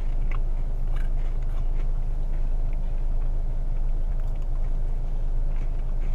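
Quiet chewing of a cookie, a few faint soft clicks, over a steady low rumble inside a car cabin.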